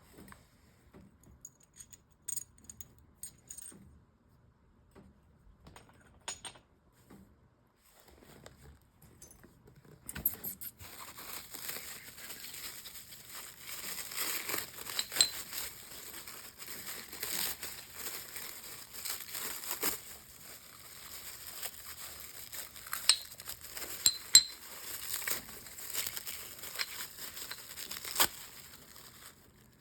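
Wrapping being torn and crumpled off a stone slab during unpacking. For the first third there are only a few light clicks and clinks as pieces are handled, then a steady crinkling and tearing with occasional sharper clicks.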